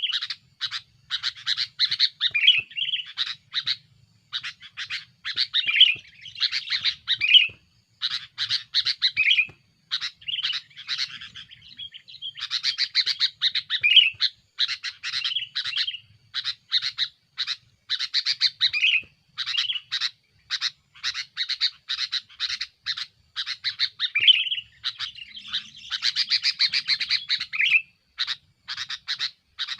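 Male sooty-headed bulbul (kutilang) singing busily and noisily: quick runs of sharp chirps and short warbled phrases, repeated with only brief pauses. This is the aggressive song of a male pressing a rival.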